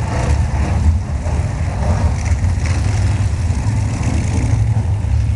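Vintage modified stock car engines running steadily with a deep rumble.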